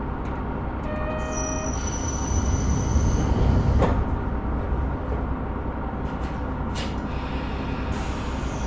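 KiHa 125 diesel railcar's doors closing at a station over the steady idle of its diesel engine. A short tone sounds about a second in, the doors shut with a knock at about four seconds and another knock at about seven, and a hiss of air comes near the end.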